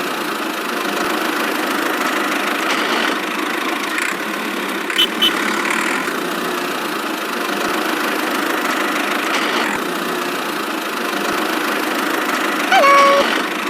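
A small motor of a DIY miniature machine running steadily, with a few light clicks and a brief tone near the end.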